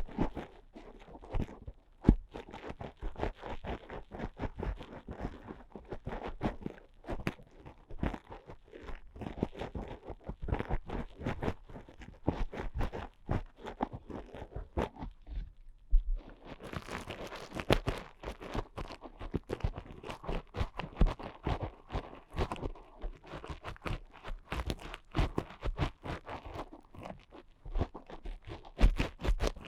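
Ear picks scraping and scratching close up inside a microphone's ear, a dense, irregular crackle. About sixteen seconds in there is a brief pause, after which the scratching turns brighter.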